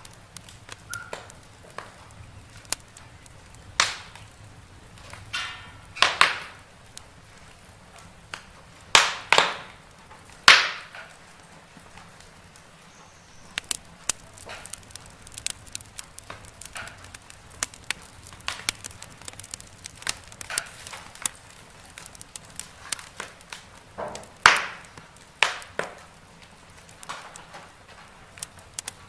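Wood fire in a fireplace crackling: irregular small snaps and clicks over a low hiss, with a handful of louder pops scattered through.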